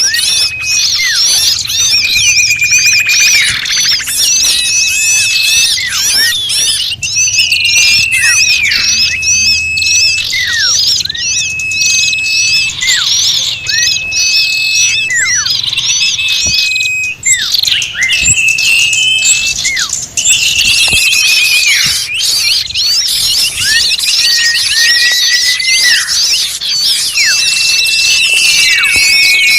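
Bird-lure recording of a noisy mixed flock of small birds calling at once: dense high chirps and trills throughout, with repeated held whistles that each end in a quick downward sweep.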